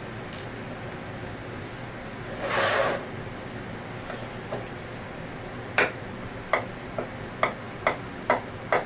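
Ratcheting hand tool clicking at a steady pace, about two clicks a second, as small screws are backed out. A short scraping hiss comes about two and a half seconds in.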